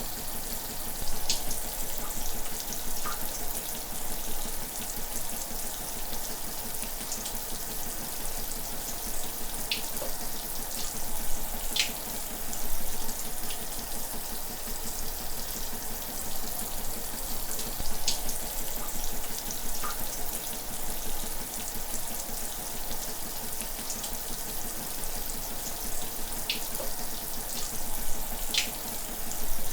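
Shower running: a steady spray of water falling, with a few brief higher drop sounds now and then.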